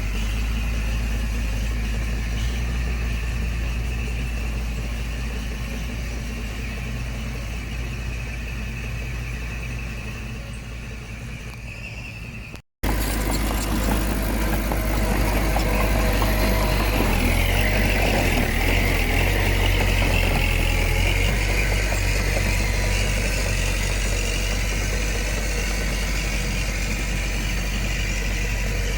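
Diesel engine of a heavy earthmoving machine running steadily, slowly fading, then after a brief break about halfway through running louder, with its note rising and falling a few seconds later.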